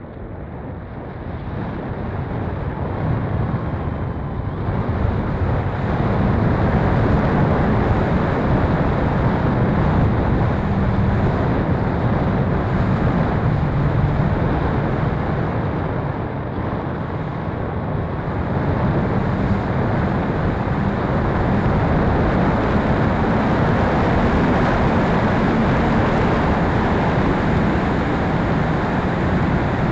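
Steady rushing wind noise on the microphone, building over the first few seconds and then holding loud.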